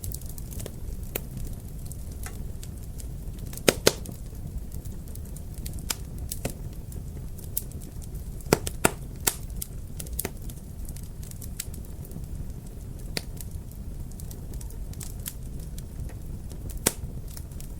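Wood fire crackling in a fireplace: a steady low rumble of flames under scattered sharp pops and crackles, with the loudest pops in pairs about four seconds in and around eight to nine seconds in.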